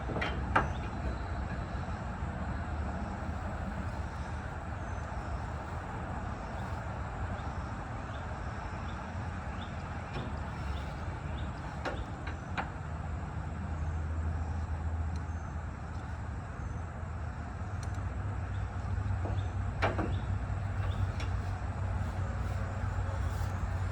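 Steady low rumble like a motor vehicle running, with a few sharp clicks and taps scattered through it, such as parts being handled and fitted.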